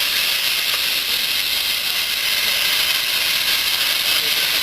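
Steam locomotive letting off steam: a loud, steady hiss with no chuffing beat.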